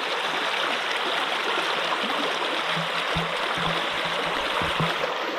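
Stream water rushing steadily over rocks, with a few soft low thumps in the second half.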